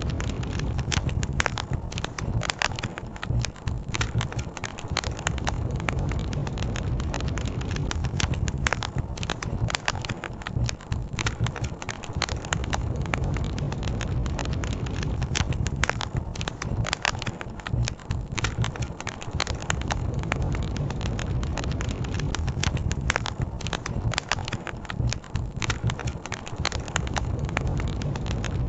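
Wood campfire crackling and popping, with many small irregular snaps over a steady low rumble.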